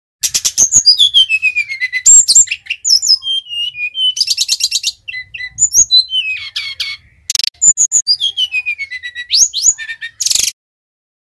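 Sikatan rimba dada coklat (SRDC) singing loudly in three phrases of rapid trills and clear whistles, several of them gliding down from high to low, with short pauses between phrases; the song stops abruptly about a second before the end.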